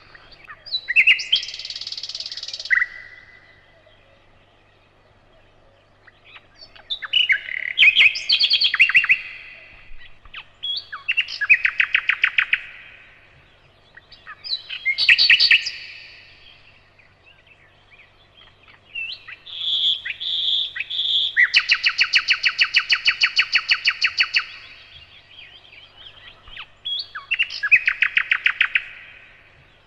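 Nightingale singing: a series of separate phrases, each a fast rattling trill of rapidly repeated notes, with short pauses between them; one phrase in the second half runs for about five seconds.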